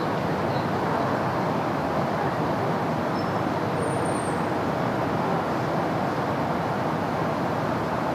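Steady city road traffic: a continuous rush of vehicles passing, with faint brief high squeaks about three to four seconds in.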